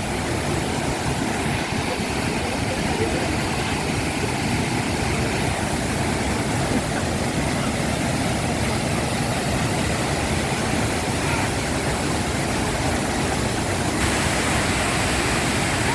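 Waterfall rushing: a steady, even roar of falling water that turns brighter and hissier about two seconds before the end.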